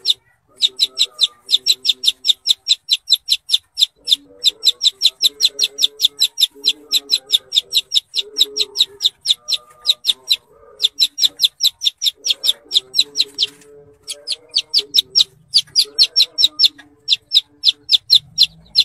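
Bird-keeper's master recording of the songbird called "kuntilanak": fast runs of sharp, high chipping notes, about eight a second, broken by brief pauses. Lower clucking, like hens, runs underneath.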